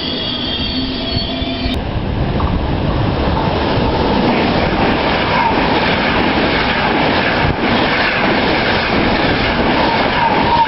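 Express passenger train in Trenitalia's grey-and-red livery passing close alongside the platform at speed. After a steady hum, a loud rushing rumble of wheels on rail sets in about two seconds in and holds, with faint wheel squeal.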